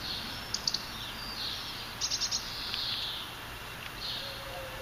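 Garden songbirds chirping, with quick runs of short high notes about half a second in and again about two seconds in.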